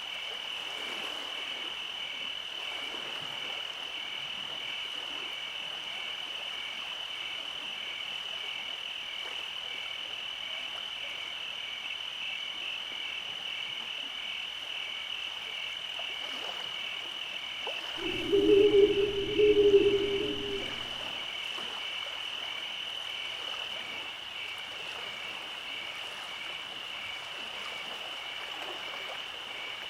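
Night frog chorus: a steady, high-pitched pulsing trill, with a much louder, deeper frog croak coming twice in quick succession a little past halfway.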